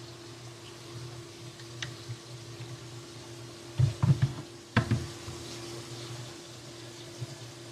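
A quick cluster of knocks about four seconds in and one more a second later, over a steady low hum.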